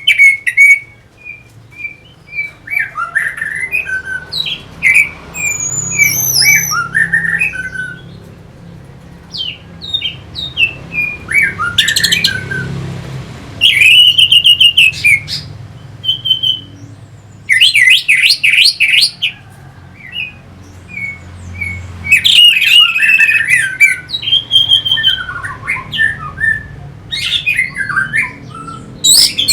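Orange-headed thrush singing a long run of varied whistled and warbled phrases, broken by several loud bursts of rapid notes.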